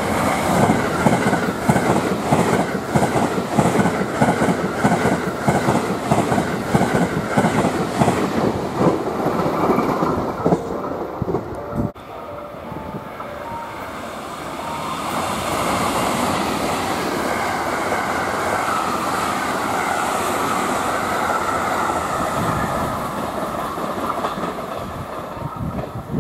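Limited express electric trains passing through a station at speed. For the first ten seconds or so there is a fast, even clickety-clack of wheels over the rail joints. After a break, a second train, a JR West 683 series, passes as a steady rushing noise that swells and then eases off.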